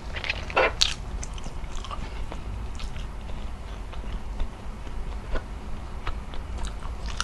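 Mouth sounds of chewing adobo-braised beef trotter and rice: irregular wet clicks and smacks, the loudest a sharp burst a little under a second in. Fingers working at the sticky, gelatinous meat add a few small clicks.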